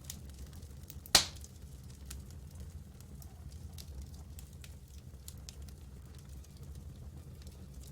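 Campfire burning, with scattered small crackles and one loud, sharp pop about a second in, over a steady low rumble.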